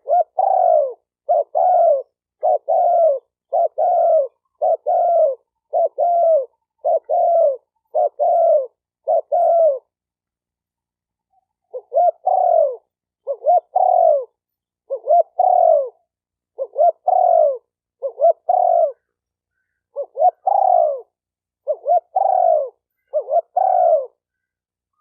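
Spotted dove cooing: short, arched coos repeated a little under once a second in a long run, a pause of about two seconds around ten seconds in, then a second run. This is the rapid excited cooing used as a lure call to provoke doves.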